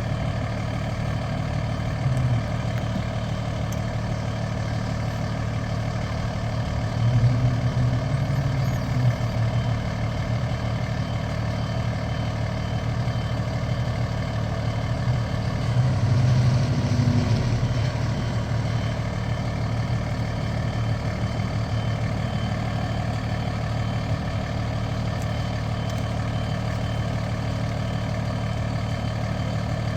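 Heavy truck engine running steadily, swelling louder twice: about seven seconds in and again around sixteen seconds in.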